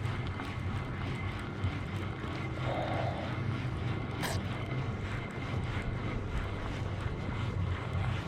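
Steady low rumble of wind on the microphone over open water, with faint scattered ticks and one sharp click about four seconds in.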